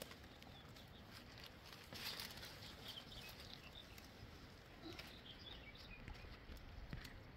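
Near-silent outdoor ambience: a faint even background with scattered light ticks and a few faint high chirps.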